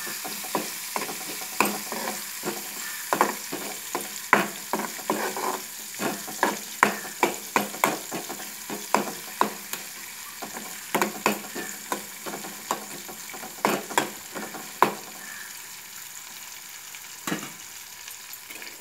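Onions, green chillies and tempering spices sizzling in hot oil in a metal kadai, with a metal spoon scraping and clinking against the pan as they are stirred. The stirring clatter stops about three-quarters of the way through, leaving the steady sizzle.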